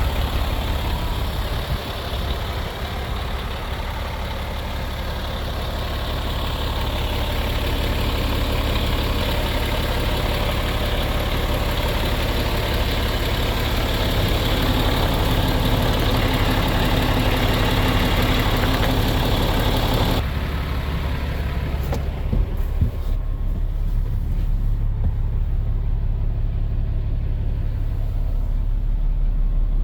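Diesel engine of a 2019 MAN TGX 28.580 truck idling steadily. About two-thirds of the way through the sound turns suddenly duller, with a few short knocks soon after, while the low engine hum carries on.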